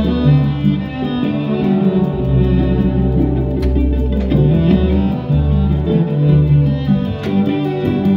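Live band music, an instrumental passage: plucked and bowed string instruments over low bass notes that change every second or so, sounding dull and muffled as in an audience recording.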